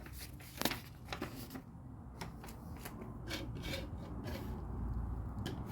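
LEGO bricks clicking and rattling as pieces are handled and pressed together: a string of irregular small clicks, with one sharper snap a little under a second in.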